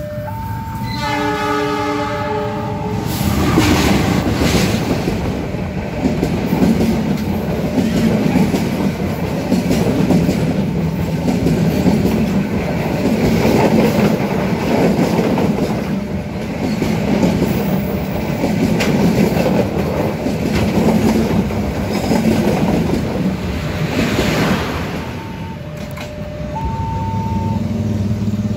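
A level-crossing warning alarm sounds its two alternating tones, and about a second in a diesel locomotive sounds its horn, a chord of several notes held for about two seconds. A passenger train then passes close by, rumbling steadily with a regular clatter of wheels over the rail joints for about twenty seconds. Near the end the clatter eases and the crossing alarm's alternating tones return as the last coach goes by.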